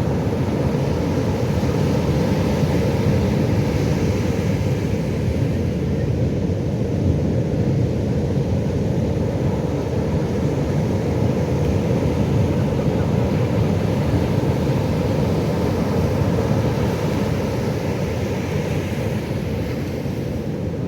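Pacific Ocean waves breaking: a steady low rumble of surf that rises and falls gently.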